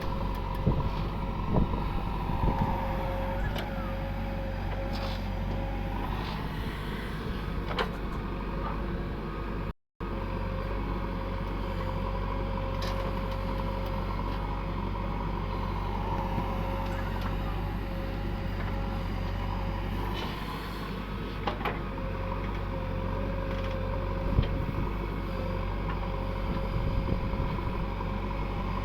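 Diesel engine of heavy machinery running steadily, with occasional short knocks; the sound cuts out for an instant about ten seconds in.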